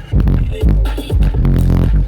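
Loud music with heavy, pulsing bass played through a car's Skar Audio VD 12-inch subwoofers.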